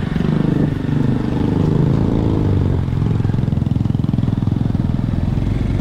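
Honda CB190R's single-cylinder four-stroke engine running as the motorcycle is ridden slowly, its pitch shifting up and down over the first few seconds, then holding steady.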